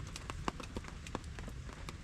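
Campsite sounds in the rain: scattered irregular ticks and pops over a steady low rumble and hiss.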